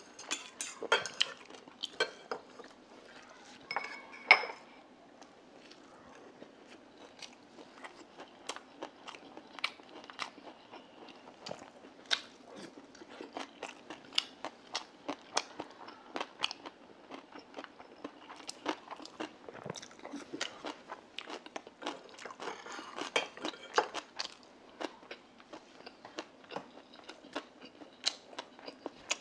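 Close-up chewing, with many small wet mouth clicks and smacks from eating rice and grilled eel. In the first few seconds, metal chopsticks tap against a brass rice bowl, and one strike near four seconds leaves a short ring.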